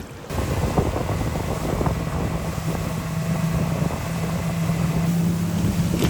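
Motorboat engine running steadily, with a held hum and wind buffeting the microphone.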